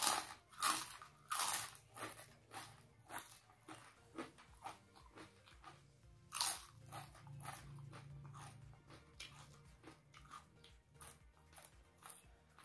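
Crunching of crispy rempeyek (peanut crackers) being bitten and chewed: a loud bite at the start and another about six seconds in, with smaller chewing crunches about twice a second between.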